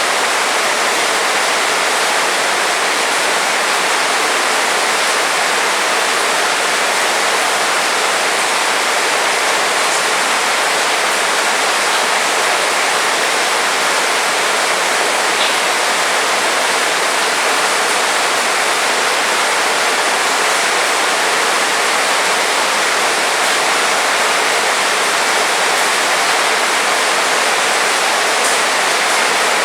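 Heavy rain falling steadily, a dense even hiss of downpour without let-up.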